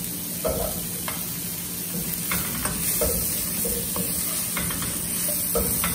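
Potato chunks sizzling in hot oil in a wok, stirred with a spatula that scrapes and taps against the pan several times a second. The potatoes are being sautéed with spices until golden brown.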